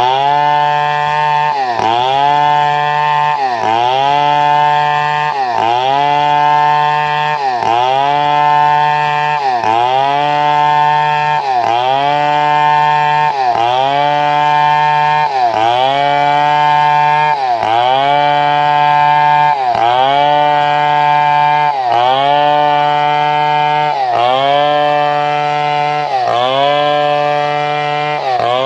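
Chainsaw engine running steadily at high revs, its pitch dipping briefly and recovering about every two seconds.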